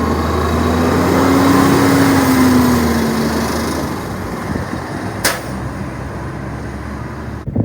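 Recycling garbage truck's engine running, its pitch and loudness rising to a peak about two seconds in and then easing off. A single sharp click sounds about five seconds in.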